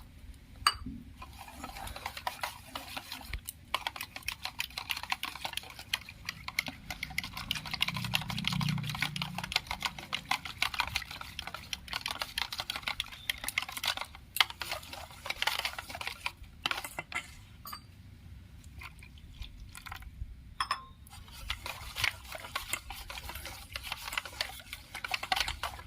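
A utensil stirring and whisking bael pulp, sugar and milk in a bowl, clicking rapidly against its sides, with a few short pauses.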